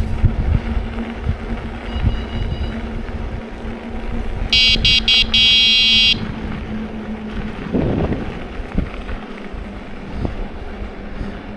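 Passing train's steady low hum and rumble carrying on beside the trail, fading after the middle. About halfway through a high horn sounds three quick toots and then a longer one.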